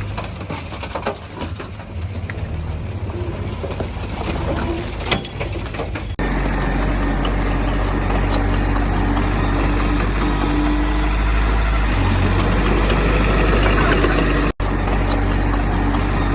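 Heavy diesel machinery running: a rougher engine sound with scattered clicks and knocks, then about six seconds in an abrupt change to a steady, louder, low diesel drone. The sound breaks off for an instant near the end.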